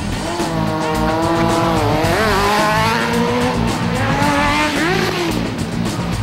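High-revving vehicle engine, its pitch wavering and swooping up about two seconds in and again near five seconds, over background rock music.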